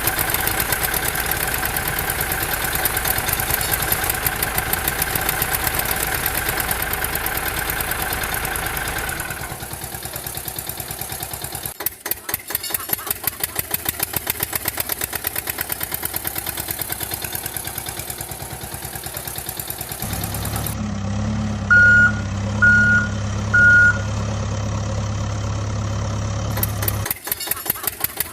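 A vehicle engine running with a fast, even chugging pulse, its sound changing abruptly several times. About two-thirds of the way through, a deeper hum takes over, with three short high beeps about a second apart.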